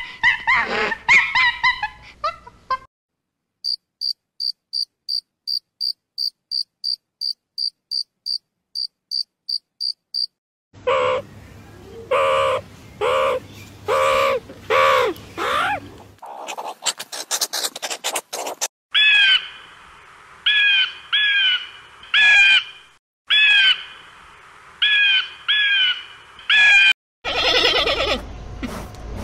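A run of different animal calls. First comes a steady series of high, evenly spaced chirps, about two and a half a second. Then a set of lower repeated calls, and later short high chirps that fall in pitch, repeated in pairs.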